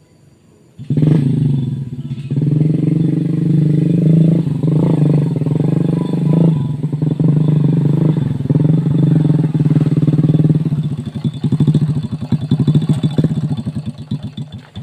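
Motorcycle engine running hard and loud, starting about a second in, its revs rising and falling, turning more uneven near the end before cutting off suddenly.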